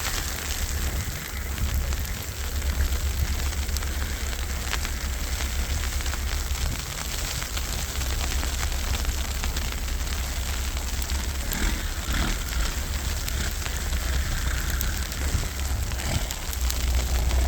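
Storm wind buffeting the microphone with a heavy low rumble, over a steady crackling hiss of wind-driven snow.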